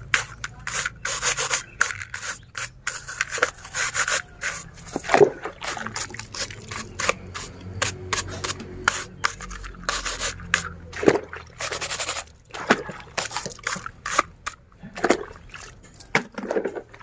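A brush scrubbing a soapy plastic toy in quick, irregular back-and-forth strokes, several a second.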